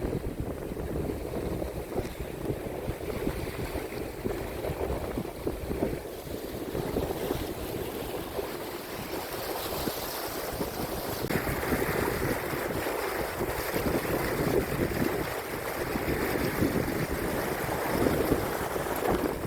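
Wind buffeting the microphone over the rush of water along the hull of a sailing yacht under sail, with no engine running; the hiss grows brighter about halfway through.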